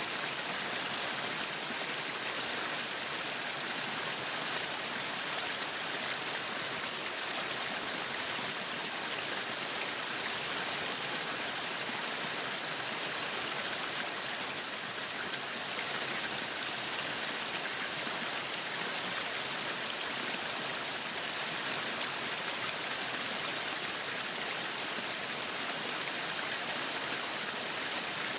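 Meat sizzling on a yakiniku grill: a steady, even hiss with fine crackling.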